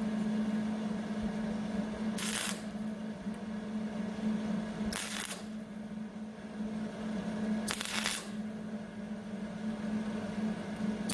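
Four short welding tacks on sheet-metal body patches, each a brief crackle about half a second long, roughly three seconds apart, over a steady low hum.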